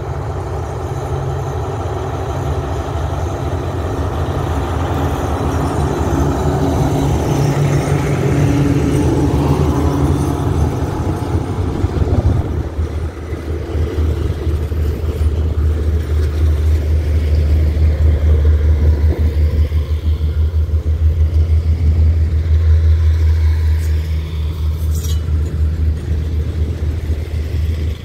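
Alsthom diesel-electric locomotive 4404 coming on at a slow roll, its diesel engine getting louder as it draws near and passes about ten seconds in. Then the passenger coaches roll by with a steady low rumble of wheels on the rails.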